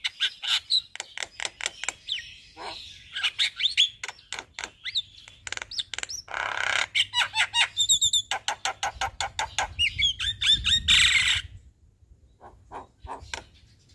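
Javan myna (jalak kebo) singing a varied song: fast clicking chatter mixed with whistled notes and two harsh squawks, about seven and about eleven seconds in.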